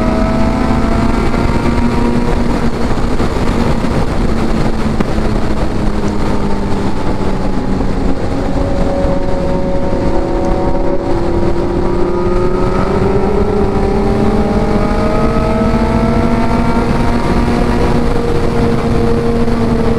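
Kawasaki Z900's inline-four engine running at highway speed, its pitch sagging and then climbing again as the bike slows and accelerates, under a heavy rush of wind on the helmet-mounted microphone.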